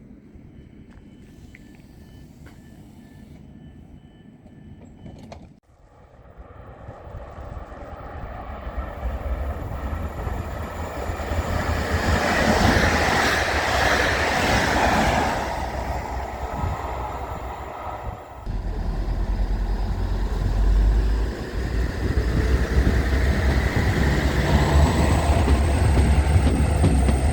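A train running through the station: its noise swells from quiet to a loud rumble, with a heavy low rumble in the later part and a faint high whine near the end. The sound breaks off abruptly twice.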